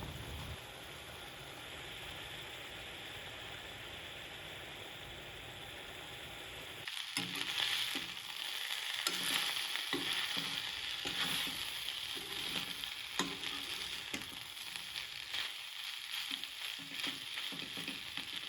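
Food sizzling as it fries in a pan, with a utensil stirring and scraping against it. A softer steady hiss for the first seven seconds gives way to louder sizzling broken by frequent clicks and scrapes.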